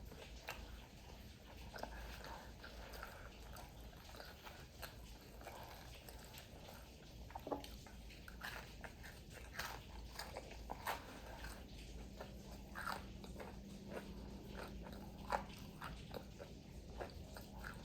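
A person biting and chewing crunchy fried food, faint, with scattered small crunches and mouth clicks.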